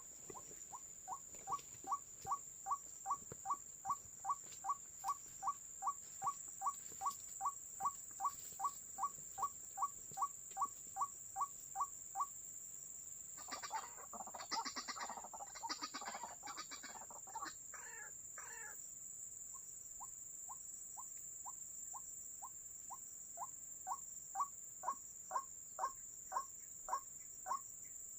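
White-breasted waterhen (ruak-ruak) calling: a long run of short notes repeated about three times a second. About 13 seconds in it breaks into a harsher, noisier stretch of several seconds, then the repeated notes resume and grow louder toward the end.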